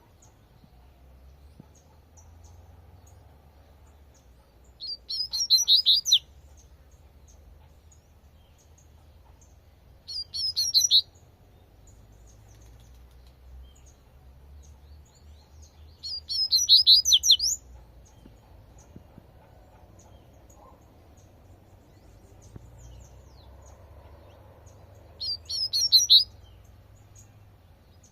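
Double-collared seedeater (coleirinho) singing its 'tui tui' song: four short bursts of rapid, high twittering notes, each about a second long, separated by several seconds, with faint chirps in between.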